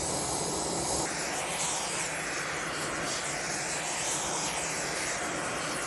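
Oxyacetylene torch flame burning with a steady rushing hiss, heating A2 tool-steel vise jaws for hardening.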